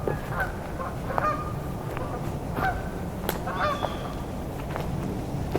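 A flock of Canada geese honking, with short calls scattered through, over a steady low rumble and a few sharp clicks.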